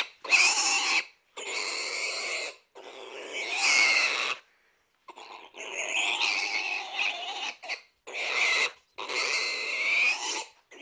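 A string of about seven or eight animal calls, each lasting under a second to about two seconds and separated by sudden short silences.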